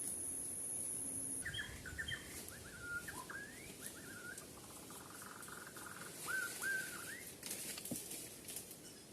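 A white-rumped shama whistling a run of short rising and falling notes, after a steady high hiss cuts off about a second and a half in. Near the end, scattered clicks and rustling.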